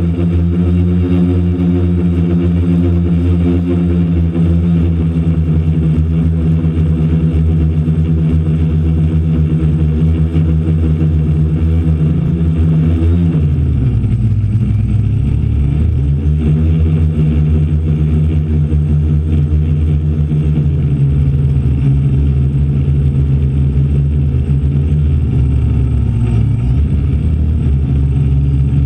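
DJI Flame Wheel F450 quadcopter's electric motors and propellers droning loudly and steadily. About halfway through, the pitch sags and then climbs back as the throttle changes.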